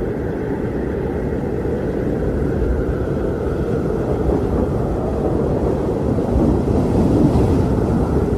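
Strong wind blowing steadily in a deep, rumbling roar, swelling slightly for a gust near the end.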